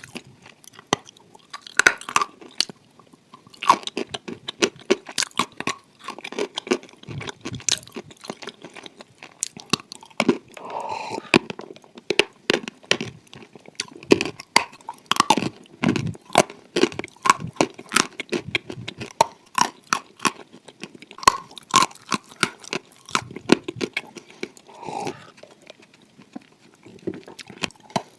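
A person chewing and crunching clay close to the microphone, with irregular crisp crunches and bites.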